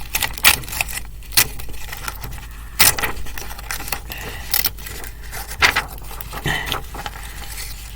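Notebook paper being torn by hand along a fold, in a string of short, irregular rips and crinkles.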